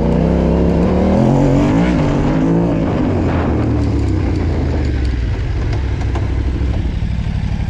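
Yamaha Ténéré 700 rally bike's parallel-twin engine pulling under throttle on a climb. Its pitch rises over the first couple of seconds, then the engine sound fades after about three seconds. A low, steady engine throb underneath turns rhythmic near the end.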